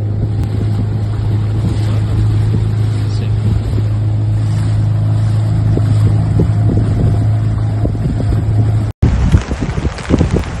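A loud, steady low rumble with a constant hum, with wind noise on the microphone. About nine seconds in it cuts off suddenly and gives way to gusty wind buffeting the microphone.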